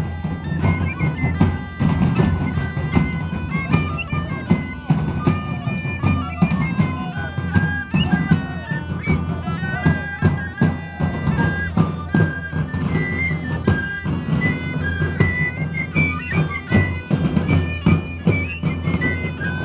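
Bagpipes playing a melody over steady drones, with drums beating along.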